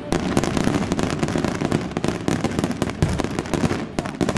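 Aerial fireworks display: a dense run of shell bursts and crackling reports, many bangs close together with a rumbling echo, thinning out near the end.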